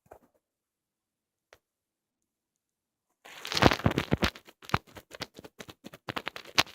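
Close-up crackling and scraping from an ear-cleaning tool worked against the microphone's ear. A faint click and a single tick come first, then from about three seconds in a dense run of sharp crackles and scratches.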